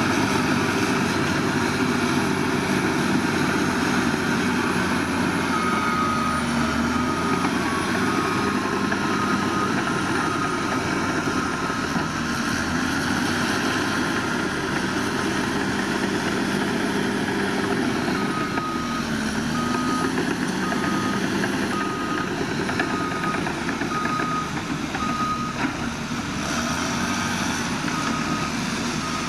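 Heavy construction machinery's diesel engines running, with a reversing alarm beeping steadily in two spells, once several seconds in and again later on for about seven seconds.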